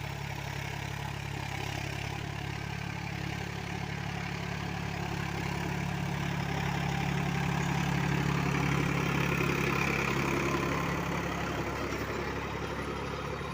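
Powertrac Euro 45 Plus tractor's diesel engine running steadily, getting a little louder about halfway through and easing back near the end.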